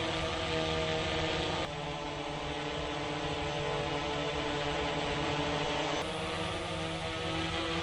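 Autel EVO 2 8K quadcopter flying on Autel's low-noise propellers: a steady hum of several propeller tones at once.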